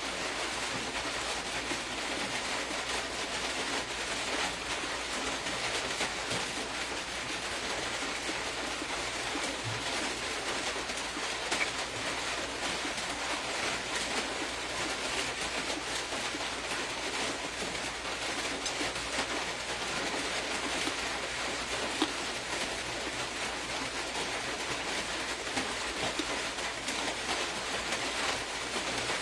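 Steady, even background hiss with a couple of faint clicks.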